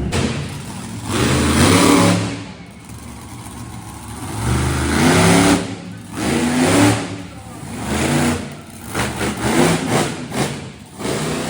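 Vehicle engine revving hard in repeated surges, its pitch climbing and dropping each time, with short lulls between.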